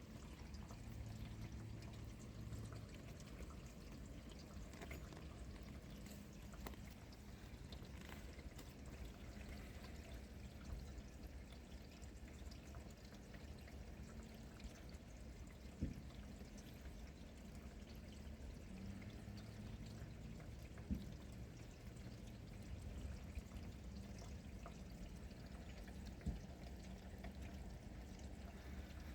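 Steady heavy rain with runoff from the roof into a gutter or drainpipe, with a few sharp taps of heavier drops along the way.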